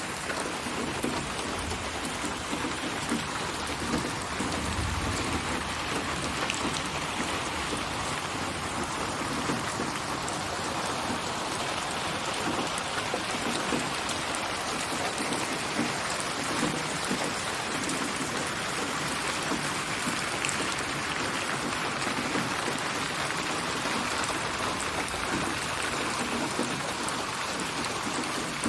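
Steady rain falling and pattering on surfaces, a sample-built rain ambience spatialized with HRTF so it seems to surround the listener. A brief low rumble comes about five seconds in.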